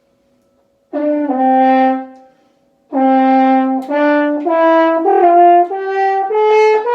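French horn played loudly. A short two-note figure comes first, then after a pause a scale climbing step by step, each note tongued separately.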